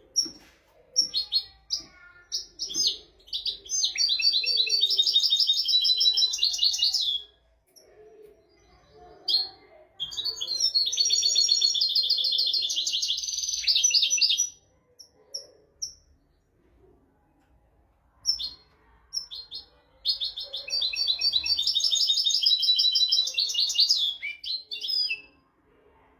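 European goldfinch singing: three fast, twittering song phrases of about four to five seconds each, every one opened by a few short separate call notes, with pauses between them.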